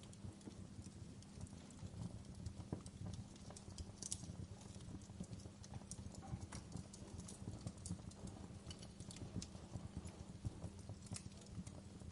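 Wood fire burning in a fireplace: a steady low rumble of the flames with frequent, irregular crackles and pops.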